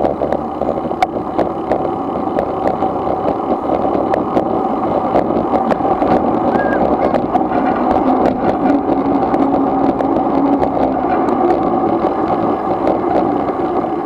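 Steady whirring drone of bikes being ridden along, with many small clicks and rattles throughout.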